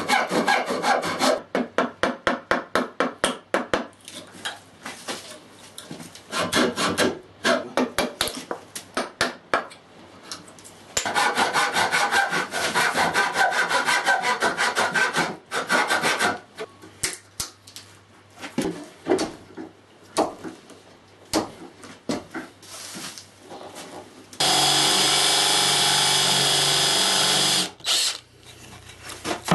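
Hand-tool work on wood: quick rhythmic scraping strokes, as of sawing or rasping, in several bursts with pauses between. Near the end a small power tool runs steadily for about three seconds and then stops.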